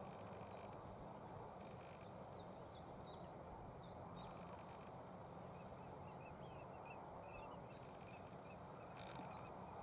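Faint songbird calls over a steady low background hiss: a run of short, sharp high chirps in the first half, then a quick series of softer, lower notes.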